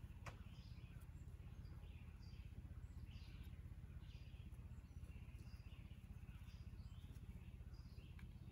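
Faint bird chirps, many short notes repeating irregularly over a low steady rumble, with one sharp click just after the start.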